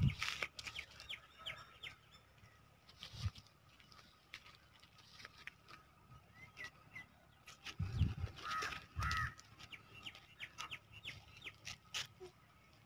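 Birds chirping and calling in quick, short high notes, with a louder run of calls about eight to nine seconds in, and a few brief low bumps.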